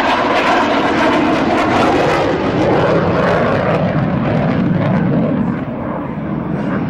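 F-15 fighter jet's twin turbofan engines roaring loudly as it flies past, the pitch of the roar sliding steadily lower as it passes.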